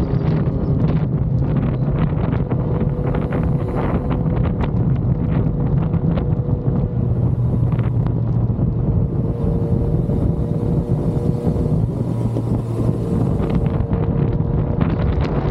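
Yamaha XSR900's three-cylinder engine running at a steady cruise, its pitch shifting only slightly, with wind rushing over the microphone.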